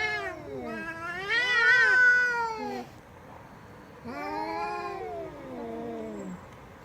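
Domestic cat yowling in long, drawn-out calls that waver in pitch. The loudest call ends about three seconds in, and another follows after a short pause.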